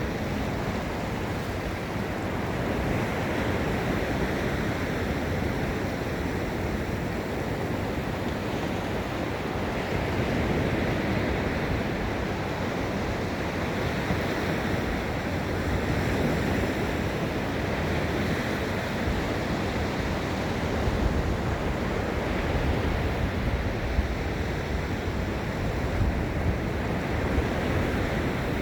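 Ocean waves breaking and washing onto the beach in a continuous surf, swelling and easing every few seconds. Wind rumbles on the microphone, mostly in the latter part.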